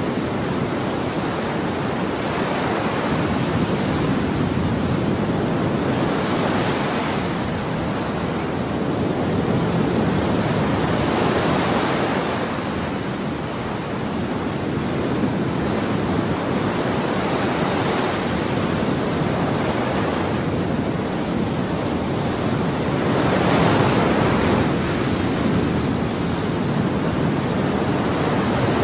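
Ocean surf: a continuous rush of waves that swells as each wave breaks, every few seconds.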